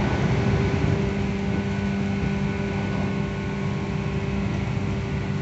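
Interior running sound of a JR West 117 series electric train: a steady hum of traction motors and gears over the rumble of wheels on rail.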